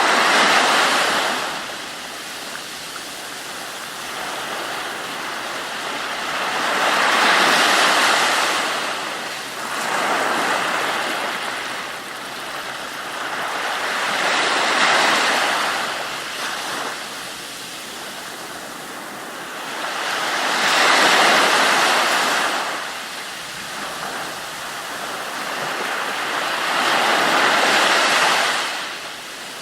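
Ocean waves washing in on a shore, with five slow swells about six to seven seconds apart, each rising and falling away into a lower steady wash.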